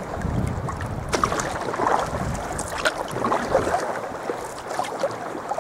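Water splashing and trickling around a sea kayak, with wind rumbling on the microphone that dies away about two-thirds of the way through.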